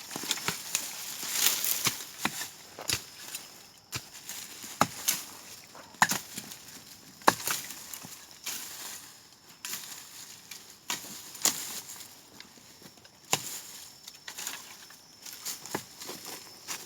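Irregular chopping blows, roughly one every second or so, from hand tools clearing brush and small trees.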